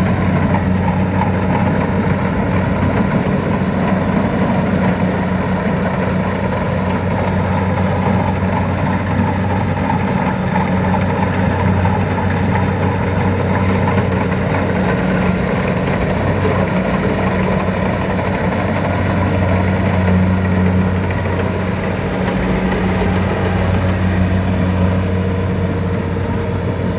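Diesel engine of a heavy farm machine running steadily at an even speed, a continuous low hum.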